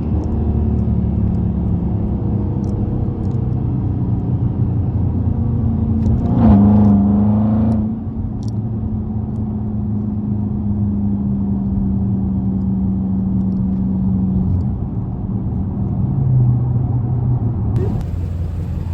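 Dodge Charger SRT 392's 6.4-litre HEMI V8 running steadily on the move. About six seconds in it gets louder in a short burst of acceleration, then settles back to a steady cruise after a second or two.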